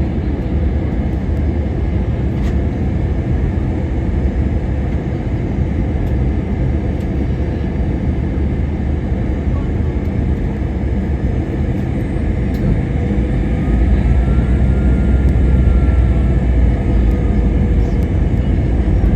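Steady rumble of an Airbus A321-200's engines and rushing air, heard from inside the passenger cabin during the descent to land. The deep rumble grows louder about two-thirds of the way through.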